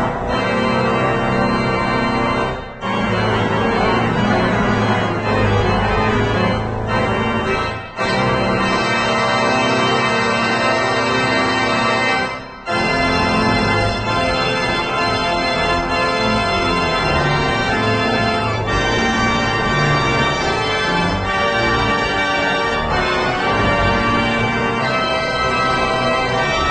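Organ playing long, sustained full chords, with brief breaks between phrases about three, eight and twelve and a half seconds in.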